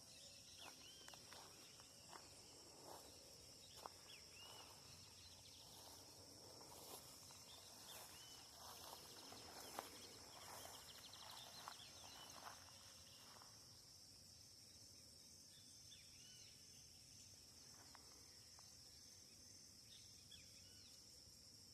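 Faint outdoor ambience: a steady high-pitched insect drone, with scattered small chirps and a spell of soft clicks and rustling in the middle that dies away after about 13 seconds.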